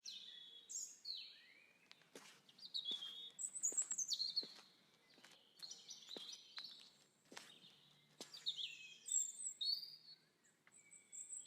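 Small birds chirping and twittering in quick, repeated short calls, the busiest stretches about four seconds and nine seconds in, with scattered sharp clicks in between.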